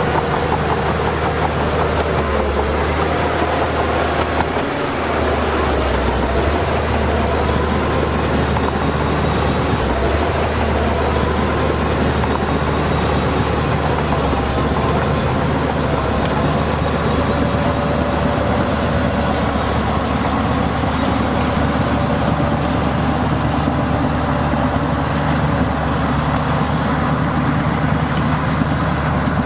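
Diesel engine of heavy earthmoving machinery running steadily under load, a constant low hum with a few higher tones that waver slowly.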